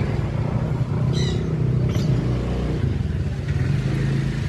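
A steady low motor hum, engine-like, with a short warbling high chirp just over a second in.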